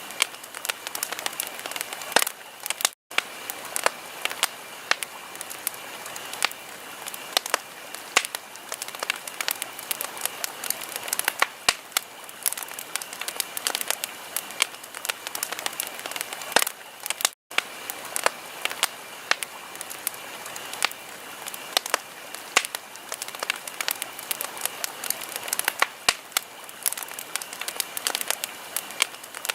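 Fireplace fire crackling: dense, irregular pops and snaps over a soft hiss. The sound drops out to silence for a split second twice, about 3 seconds in and about 17 seconds in.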